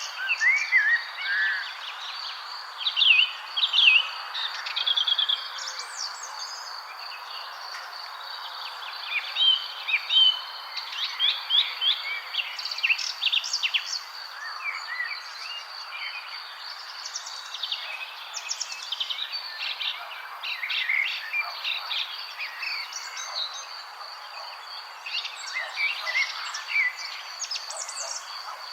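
Several songbirds chirping and singing in short, overlapping phrases, over a steady high insect trill and a light hiss of outdoor ambience.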